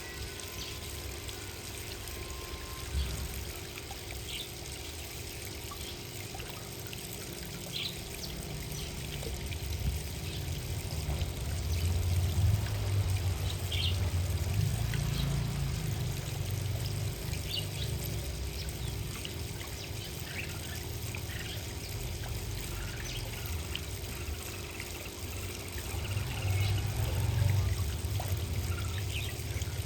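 Short, scattered chirps of small garden birds over a low, watery rumbling noise that swells in the middle and again near the end.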